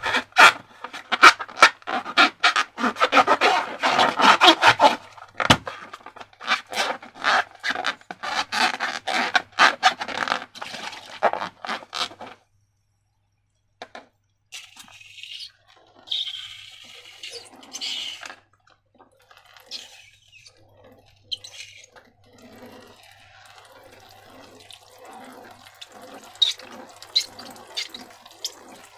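Sticky slime squelching and crackling, with rapid sharp clicks for about twelve seconds. After a brief silence come quieter, softer wet squishing sounds.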